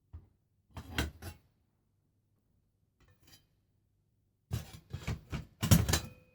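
Metal parts of a knock-down steel fire pit clattering and clanking as they are handled and fitted together: a short clatter about a second in, then a longer run of clanks near the end, the last one left ringing.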